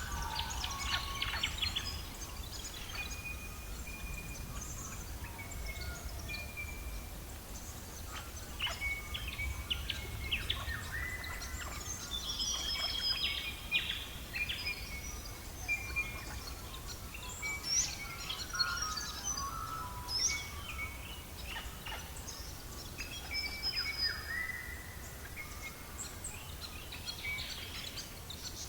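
Several birds singing and calling: short whistled notes, chirps and quick rising and falling trills scattered throughout, over a steady low rumble.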